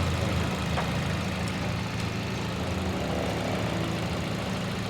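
Toyota GLi petrol engine idling steadily with its tappets freshly set, running quietly with no tappet clatter.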